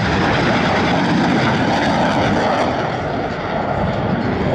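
Loud, steady roar of Blue Angels F/A-18 Super Hornet jet engines, easing slightly about three and a half seconds in.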